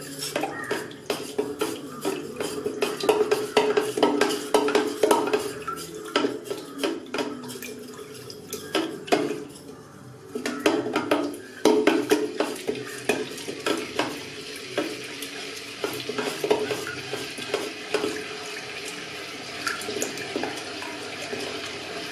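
A ladle stirring thick milk porridge inside a switched-on electric kettle, with repeated short scrapes and clicks against the kettle's inside and a brief lull about ten seconds in.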